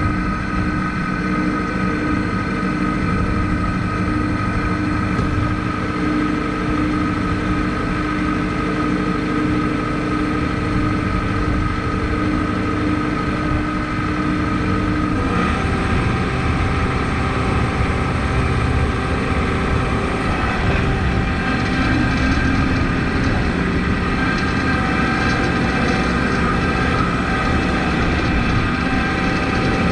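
Kubota MX5200 tractor's diesel engine running steadily under load, its pitch shifting about halfway through and again a few seconds later.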